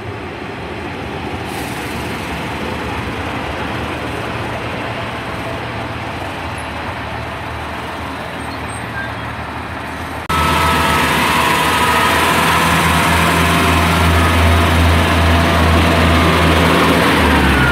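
Class 142 Pacer diesel multiple unit standing at the platform with its engine running. About ten seconds in the sound jumps suddenly louder to a steady, heavier diesel engine note with a low hum as the unit powers up to depart.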